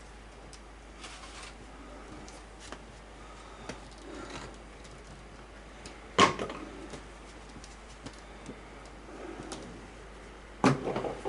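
Scattered light ticks and taps over a low background, with two sharp, louder knocks, one about six seconds in and one near the end.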